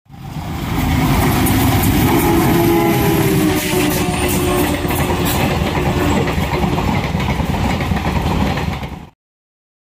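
Train running on the rails: a loud, heavy rumble with wheel clatter that fades in over the first second and cuts off abruptly near the end.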